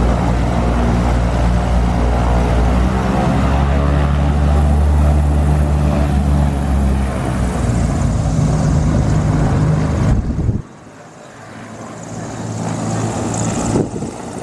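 Propeller aircraft engine running loudly and steadily, its pitch shifting slightly part-way through. About ten and a half seconds in the sound drops off abruptly and returns quieter, building up again.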